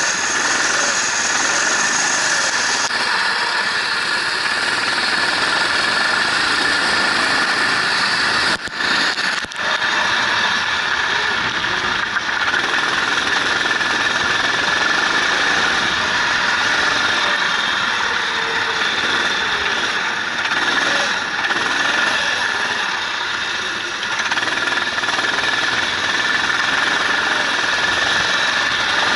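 Racing engine running hard around the track, its note rising and falling through the gears under a steady rush of wind and road noise. The level drops briefly twice about nine seconds in.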